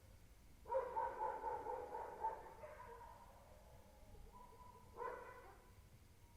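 An unidentified wailing, howl-like call. One long wavering cry starts suddenly about a second in and trails off over a couple of seconds, and a second shorter cry follows about five seconds in.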